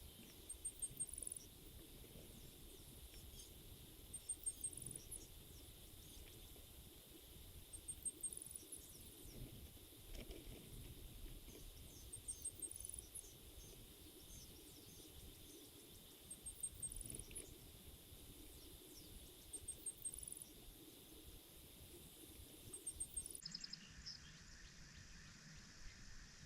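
A bird singing a short high phrase about every four seconds over a faint outdoor background, which changes abruptly near the end.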